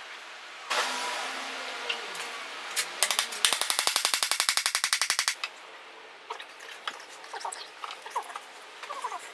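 Workshop tool noise: a steady whirring hiss for about two seconds, then a loud, rapid clicking at about ten clicks a second for two seconds. Faint bird chirps follow in the second half.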